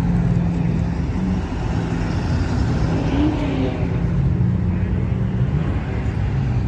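Car engine running steadily, with street traffic going by.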